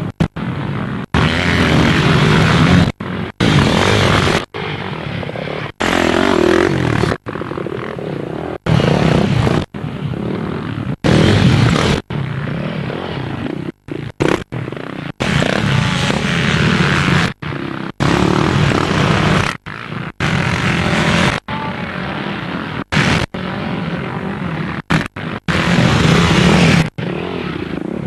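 Off-road motorcycle engine running under load with wind rushing over a helmet-mounted camera, the sound cutting out abruptly for a moment every second or two.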